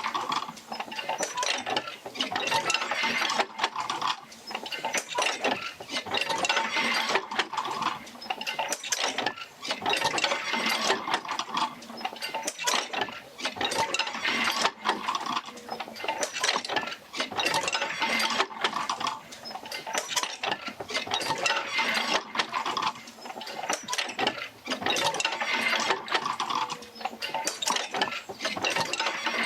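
Oil-field jerker-line field wheel rocking back and forth under the drive of a Fitzgerald rig, its wheel, rods and jerker-line linkages clanking and rattling. The noise comes in a slow repeating rhythm, with a short lull every few seconds as each stroke turns.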